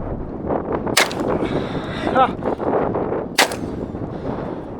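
Two shots from an over-under .410 shotgun, about two and a half seconds apart.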